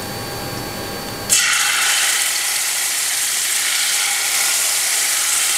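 Spice-marinated chicken hitting hot vegetable oil in a frying pan: a sudden loud sizzle starts about a second in and keeps going as a steady crackling hiss.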